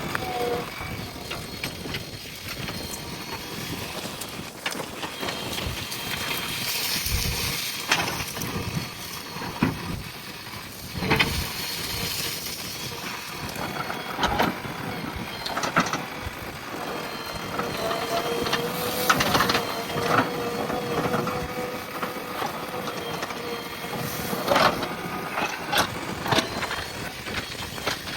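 JCB backhoe loader engine running as the machine works, with repeated sharp knocks and cracks of the bucket striking soil and brush. A steady whine comes in during the second half.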